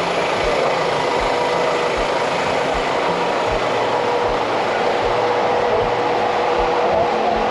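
Steady street noise with a vehicle engine running, a constant hum over it, and scattered low thumps.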